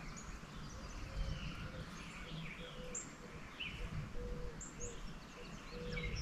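Several songbirds chirping and calling, faint, with short low steady notes coming and going over a light outdoor rumble.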